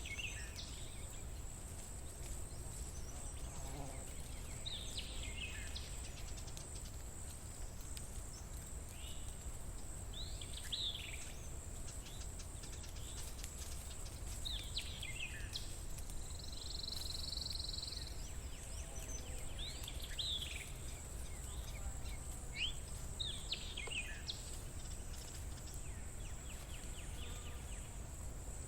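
Birds chirping in short, quick downward-sweeping calls every few seconds, over a steady high insect drone and a low background rumble. A brief buzzy trill comes in about two-thirds of the way through.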